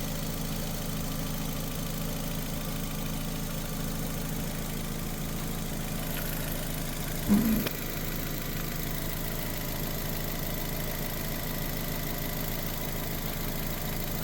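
Nissan Sentra's 1.8 L inline-four engine idling steadily while it warms up to purge air from the cooling system. About halfway through there is one brief, louder sound.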